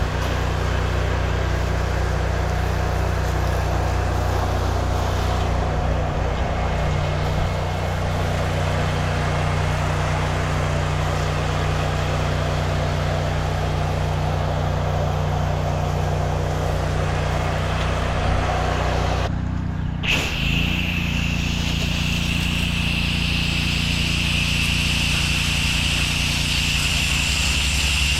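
An engine running steadily. About twenty seconds in the sound changes abruptly, and a steady high hiss joins the engine from then on.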